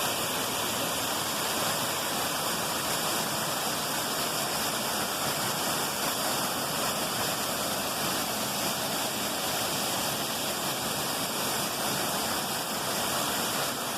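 Steady rush of a waterfall: falling water making a constant, even roar that does not let up.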